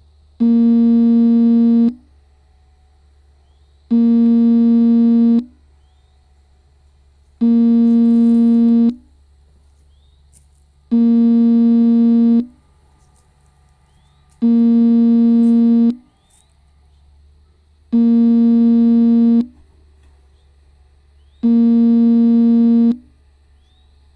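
Warning buzzer on heavy earthmoving machinery, such as a travel or reversing alarm, sounding seven long, low buzzing beeps of about a second and a half each, evenly spaced every three and a half seconds. A steady low engine hum runs underneath.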